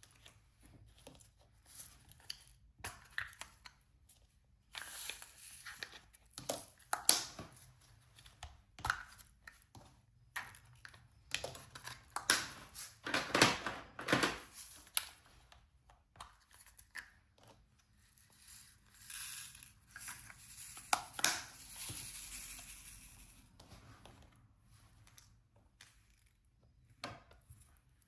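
Diamond painting work sounds: crinkling and peeling plastic film with scattered small clicks and taps, coming in irregular spells with a few longer scratchy stretches.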